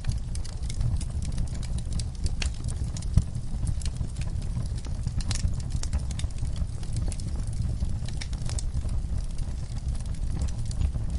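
Wood fire in a fireplace burning, with irregular crackles and pops over a steady low rumble of the flames; one louder pop about three seconds in.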